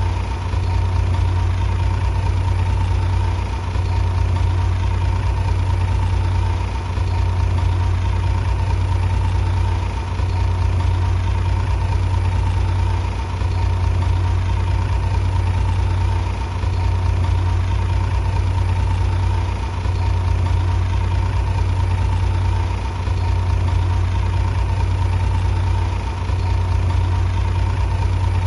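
Bulldozer's diesel engine running with a steady low drone, dipping briefly in level about every three seconds.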